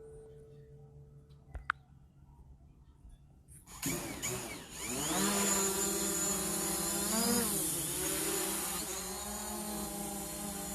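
DJI Phantom quadcopter's motors spinning up about four seconds in and then running steadily with a high whine, their pitch rising and dipping as the throttle changes. A faint short tone and a few clicks come before the motors start.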